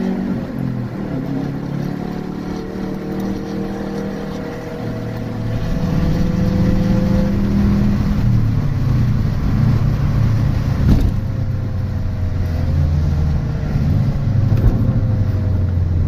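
Turbocharged flat-four of a 2003 Subaru WRX with an aftermarket exhaust, heard from inside the cabin while driving. The engine note rises and falls with throttle and gear changes and gets louder about five seconds in. A single sharp knock comes about eleven seconds in.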